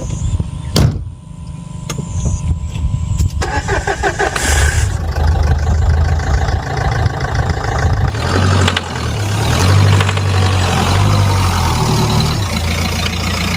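A car engine starting and running, with a sharp click just under a second in and a steady low engine note from about eight seconds in.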